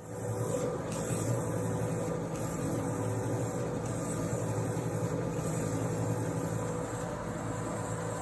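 Factory machinery running steadily: a continuous hum with a constant low drone and hiss that stays even throughout.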